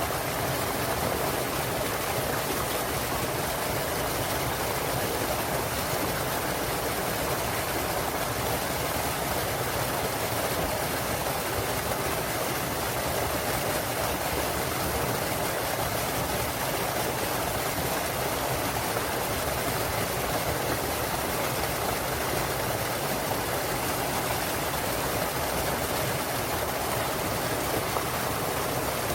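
Small waterfall in a mountain stream, clear water pouring and rushing steadily.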